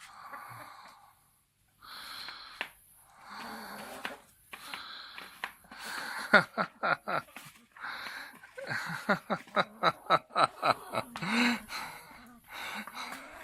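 A person laughing: breathy, wheezing bursts at first, then two runs of rapid, voiced laughter at about five pulses a second.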